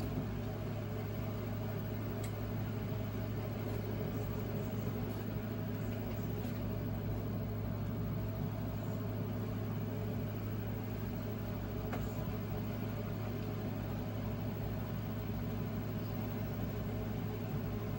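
Steady low electrical hum with faint background hiss, unchanging throughout.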